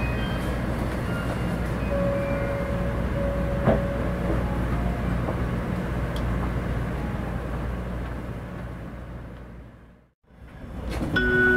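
Steady rumble and hiss of a JR Central 700 Series Shinkansen train, with a low hum underneath, fading out to silence about ten seconds in. Just before the end, the tones of the onboard announcement chime begin.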